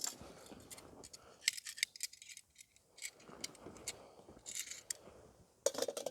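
Light clinking and rattling of small hard objects being handled, in short clusters about a second and a half in, again past the middle and near the end.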